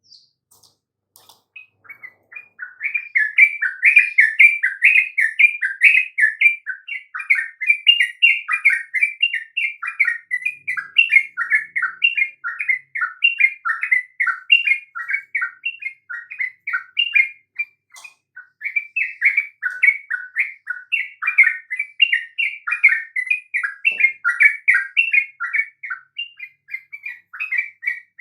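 Yellow-vented bulbul (trucukan) in full song: a fast, continuous run of short chirping notes that starts about two seconds in and pauses briefly near the middle.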